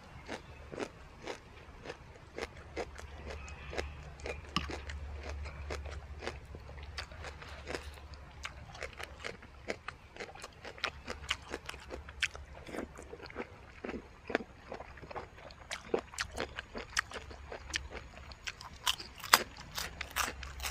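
Close-up mouth sounds of chewing and crunching a spicy jellyfish and beef tripe salad with raw vegetables: many short, sharp crunchy clicks, with a metal spoon now and then scraping the tray. A low steady rumble runs underneath.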